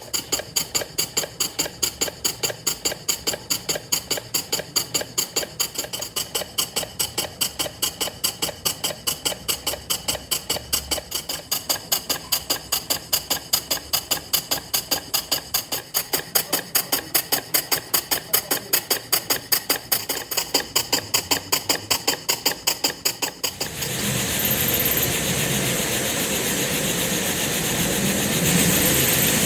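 Miniature model engine running, its mechanism clicking sharply and evenly at about four beats a second with a metallic ring. About 24 seconds in, the clicking gives way to a steady hiss.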